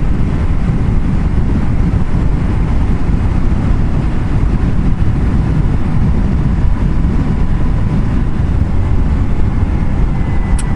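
Steady wind rush and road noise of a motorcycle ride at speed, mostly a low rumble, with a faint steady whine running under it.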